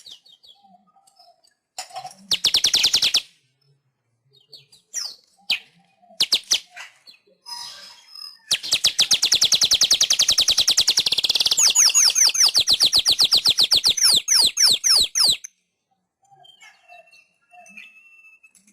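Manyar (weaver bird) song: a few short chattering bursts, then a long, loud, very rapid chattering trill lasting about seven seconds, which breaks into quicker sweeping notes partway through and stops abruptly. Faint calls follow near the end.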